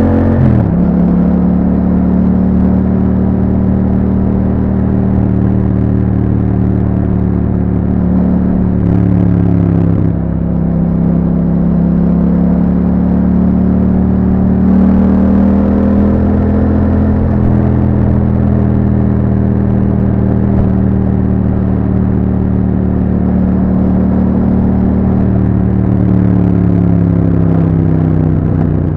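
2021 Yamaha MT-07's 689 cc parallel-twin engine running through an Akrapovic exhaust with a dB killer, pulling at fairly steady revs under way. The pitch drops sharply just after the start, as at a gear change, dips again briefly about ten seconds in, and the revs ease down near the end.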